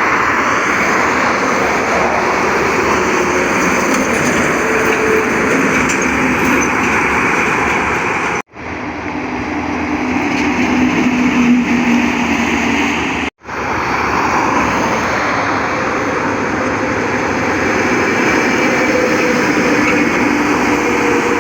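Highway traffic noise from passing trucks: a steady rush of tyres on the road with diesel engine drone, cut off abruptly twice, about 8 and 13 seconds in.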